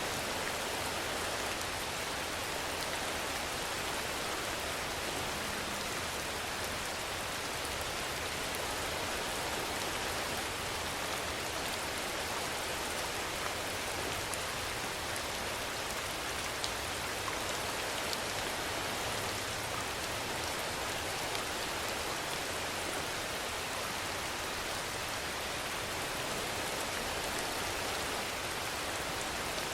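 Steady rainfall making an even hiss, with a few faint single drop ticks standing out.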